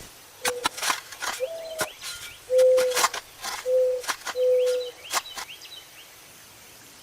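A run of sharp clicks and knocks with four or five short squeaks in between, and faint bird chirps behind; the clicking stops about six seconds in.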